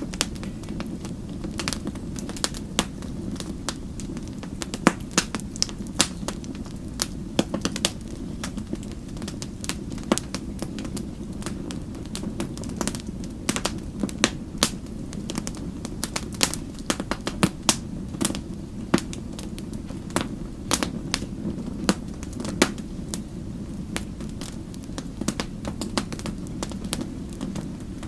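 Wood fire crackling and popping: many irregular sharp snaps, a few louder pops, over a steady low rumble of the flames.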